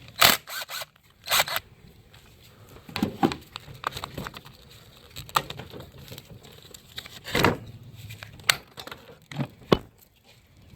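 Irregular clicks, knocks and short scrapes of hands and tools working on parts in a car's engine bay.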